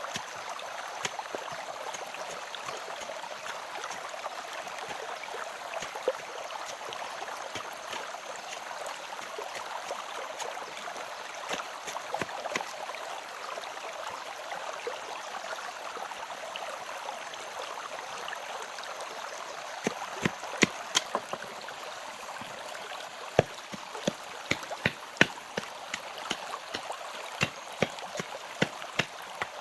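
Steady running water, like a small stream. In the second half, a dozen or so sharp knocks come at irregular intervals over it.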